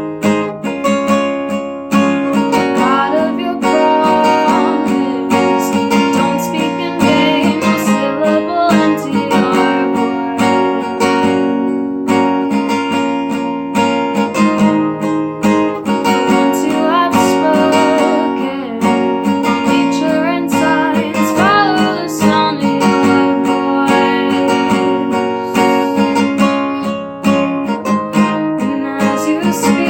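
Music: a strummed acoustic guitar playing chords steadily, with a voice singing over it at times.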